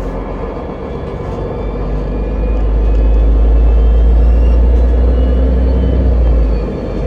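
Ride noise from a moving route-42 city vehicle, heard by a passenger riding it: a steady deep rumble that swells louder for a few seconds midway and eases off near the end.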